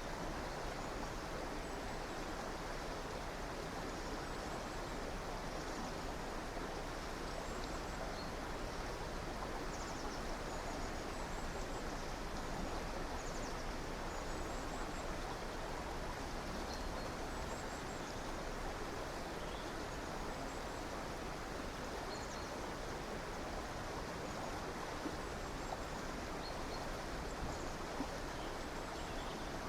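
River water flowing in a steady, even rush, with faint, short bird chirps scattered through it.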